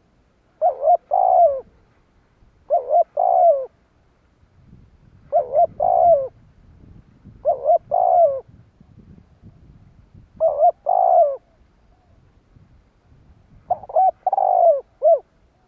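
Spotted dove cooing: six repeated phrases of a few low notes each, one about every two seconds.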